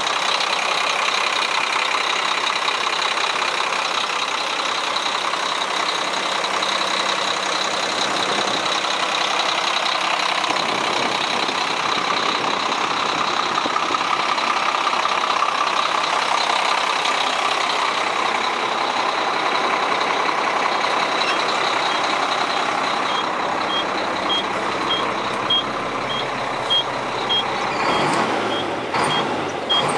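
Heavy diesel truck tractor engine running steadily. About two-thirds of the way in, a backup alarm starts beeping about twice a second, and a few sharp knocks come near the end.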